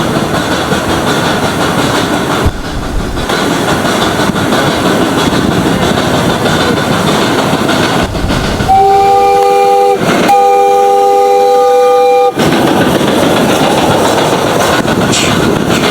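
Ride-on 1/8-scale live-steam Hiawatha locomotive and passenger cars running on the track with a steady rumble and wheel clatter. About nine seconds in, the locomotive's chime whistle sounds twice, a short blast then a longer one, several notes at once.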